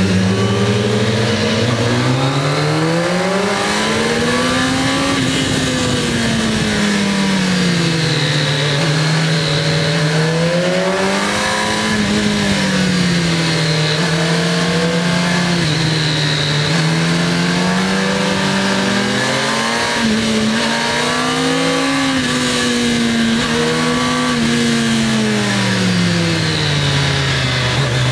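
Kawasaki ZX-10R's inline-four engine heard from on board, its revs rising and falling again and again as the throttle is opened and rolled off through a string of bends, over steady wind noise.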